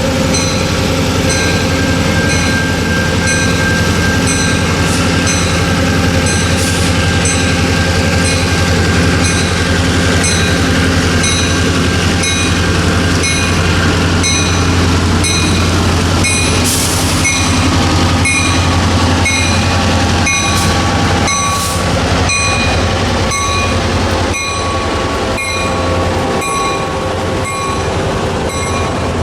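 Freight train rolling past with a steady low rumble. A bell dings rhythmically about once a second throughout, and a few sharp wheel clicks sound in the middle.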